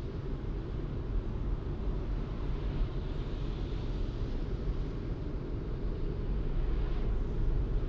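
A car being driven, giving a steady low rumble of road and engine noise. A lighter tyre hiss grows and then fades about three to five seconds in.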